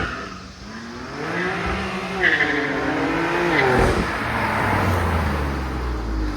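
Car engine revved hard under acceleration, its pitch climbing and wavering for a few seconds, then dropping sharply about four seconds in and settling into a low rumble.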